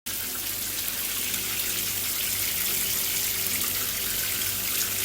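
Heavy rain sound effect: a steady hiss of downpour that cuts in suddenly at the start and holds evenly.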